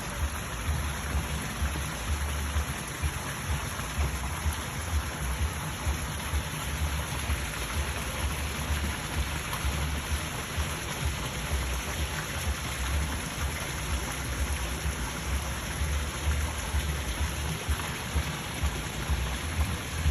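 Steady patter and hiss of falling water, with many small splashes, over a low, uneven rumble.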